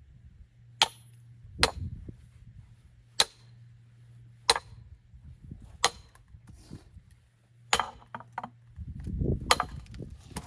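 An axe chopping firewood: about seven sharp, separate strikes into wooden logs, roughly every second and a half.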